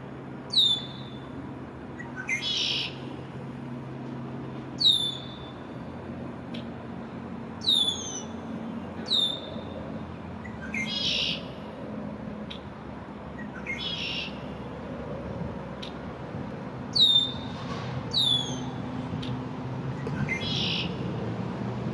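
An immature, first-spring male red-winged blackbird calling over and over: about eight shrill whistles, each falling sharply in pitch, with a few short rasping calls between them. A steady low hum runs underneath.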